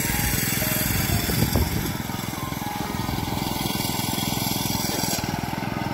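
Small petrol engine of a road core drilling machine running steadily, boring a test core through the asphalt pavement.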